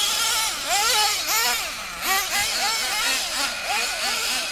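Radio-controlled monster trucks' small engines revving up and down over and over, a high whine that rises and falls several times a second.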